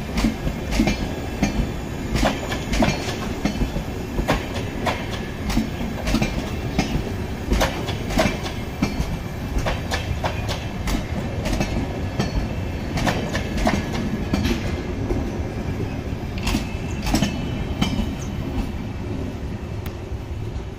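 Tejas Express passenger coaches passing at speed, wheels clattering over the rail joints: a steady low rumble broken by many irregular sharp clicks.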